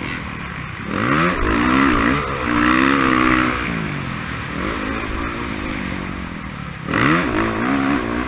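Racing motorcycle engine revving. Its pitch climbs sharply about a second in and stays high for a couple of seconds, then drops back to a lower, steadier note and climbs again near the end.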